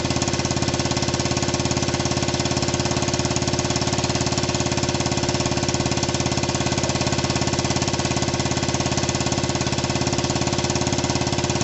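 Dirt bike engine idling steadily and evenly just after a cold start, settling nicely and running smoothly now that its carburettor has been cleaned.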